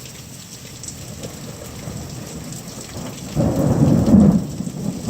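Steady rain hiss, then about three and a half seconds in a loud, low rumble of thunder breaks in and builds.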